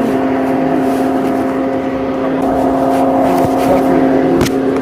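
A car engine idling with a steady hum, and a sharp click about four and a half seconds in.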